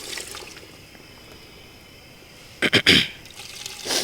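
A person coughing: three quick coughs about two and a half seconds in, and a shorter one near the end.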